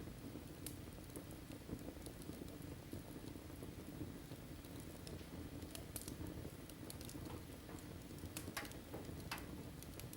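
Wood fire in a fireplace crackling faintly: scattered sharp pops and ticks over a steady low rumble of the flames.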